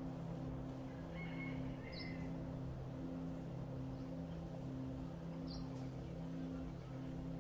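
A low steady hum that pulses in an even rhythm, with a bird giving a short high chirp twice.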